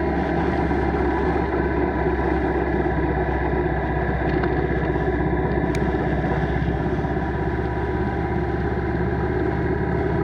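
Motorcycle engine running at a steady pitch, with a single sharp click about six seconds in.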